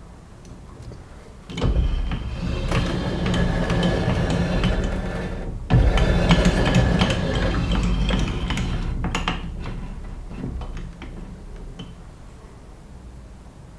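A metalworking power tool cutting steel, in two runs: each starts suddenly and gives a steady hum with noise on top, and the second fades out.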